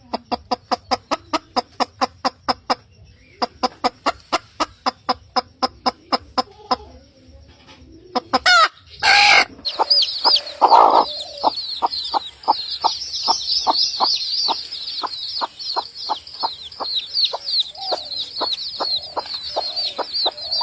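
Chickens clucking in fast runs of short, evenly spaced clucks, with a few louder, longer calls around the middle. From about halfway, a dense high-pitched chirping joins the clucking.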